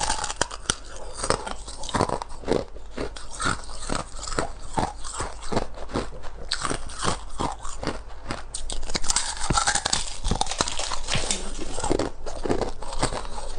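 Thin ice being bitten and chewed: a fast, irregular run of sharp crunches and crackles that grows denser about two-thirds of the way through.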